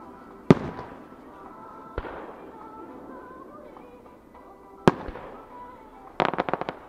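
Aerial fireworks shells bursting: three sharp bangs, the first, about half a second in, the loudest, each followed by a fading echo. Near the end comes a quick rattle of about ten crackling pops. Music plays faintly underneath.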